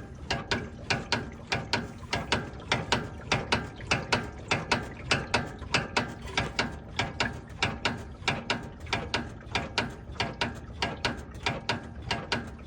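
Repeated clunking from a car's front end, sharp knocks coming evenly about two to three times a second: the front-end clunk that is being diagnosed.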